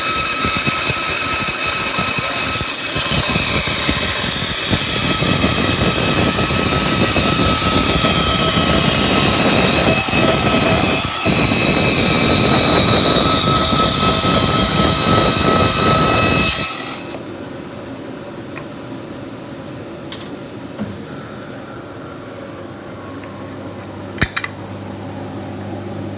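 Bandsaw running and cutting through wood, a loud steady whine over a hiss of sawing. About two-thirds of the way in the noise drops suddenly to a much quieter steady running sound, with a couple of faint clicks afterwards.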